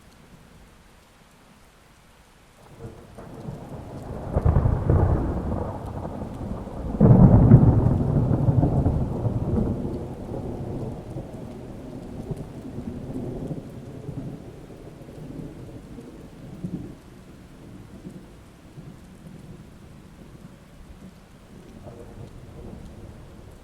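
A thunderclap and rolling thunder over steady rain. The rumble builds a few seconds in, peaks sharply about seven seconds in, and then rolls away over several seconds, leaving the rain.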